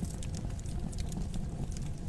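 Wood fire burning in a fireplace: a low steady rumble of flames with irregular small crackles and pops.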